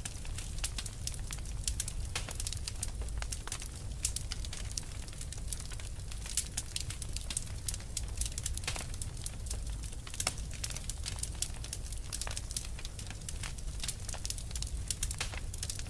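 Fire crackling steadily, with many sharp irregular pops over a low rumble of the burning.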